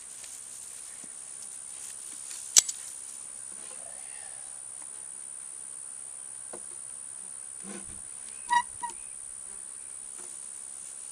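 Steady high-pitched insect buzz, with a single sharp click about two and a half seconds in and a short pitched chirp with a couple of clicks about eight and a half seconds in.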